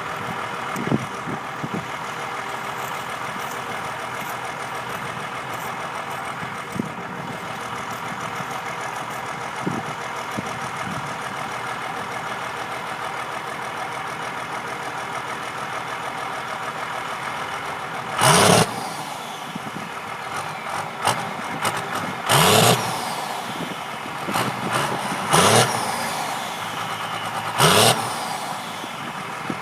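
Cummins 5.9 12-valve P-pump inline-six diesel idling steadily, then blipped hard in short revs about every two to three seconds from about two-thirds of the way in.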